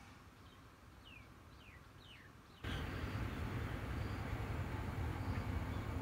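A bird gives three short falling chirps over quiet outdoor ambience. About two and a half seconds in, a louder steady noise with a heavy low rumble starts suddenly and continues.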